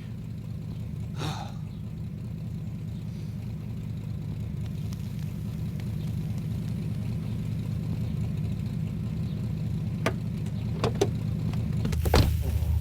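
Animated car's engine running steadily with a low hum, slowly growing louder, with a few sharp clicks near the end.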